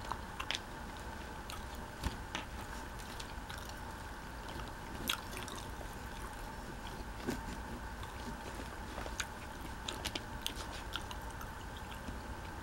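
Close-up chewing of a fried roll, with scattered small clicks and taps of a metal knife and fork cutting on a paper plate, over a steady faint background hum.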